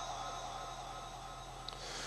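Quiet pause in amplified Quran recitation: steady hum and hiss of the sound system under the last fading echo of the reciter's voice, with a faint tick near the end.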